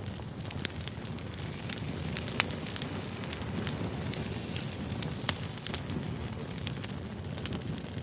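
Wood fire burning: a steady low rumble of the flames with frequent sharp crackles and pops of the firewood, the loudest pop about two and a half seconds in.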